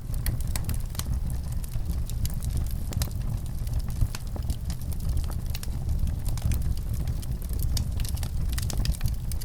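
Fireplace crackling: frequent sharp pops and snaps from burning wood over a steady low rumble of the fire.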